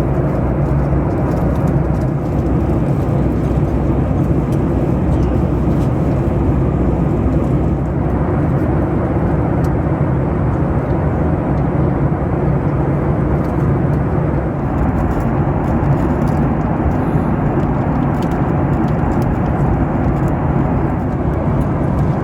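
Steady cabin noise of a Boeing 737-9 MAX airliner in flight: an even rush of airflow and engine noise with a low hum underneath, unchanging throughout.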